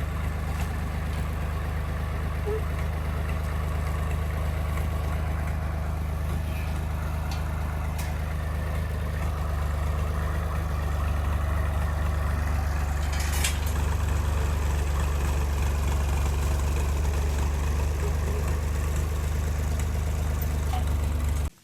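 An engine running steadily with a low hum, getting slightly louder about halfway through, with a brief sharp click about two-thirds of the way in.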